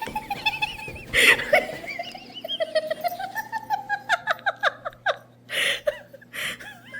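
A person giggling and laughing in high-pitched, quick, falling bursts, with a couple of breathy gasps near the end.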